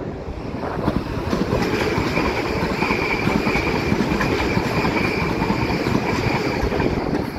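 South Western Railway passenger train running past, a dense rumble of wheels on rails that builds about a second in and holds steady, with a high steady whine over the middle of the pass.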